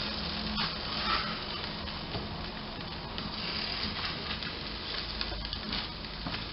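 Cottage cheese cookies frying in a nonstick pan with a steady sizzle, and a few light scrapes and taps of a wooden spatula as they are flipped over.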